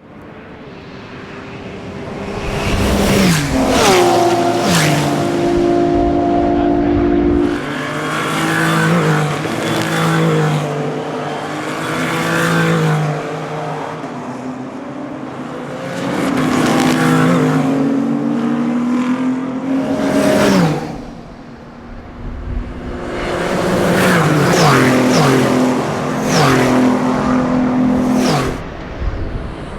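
Endurance racing cars running hard past, one pass after another, each swelling up and fading away. The engine notes climb with the revs and drop sharply at gear changes, with a brief lull a little past two-thirds of the way through.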